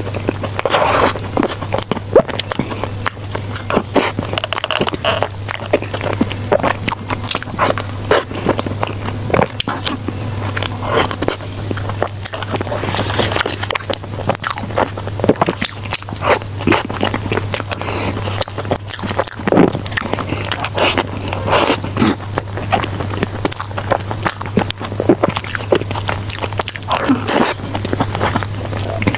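Close-miked eating: repeated bites and wet chewing with small mouth clicks and crackles, over a steady low electrical hum.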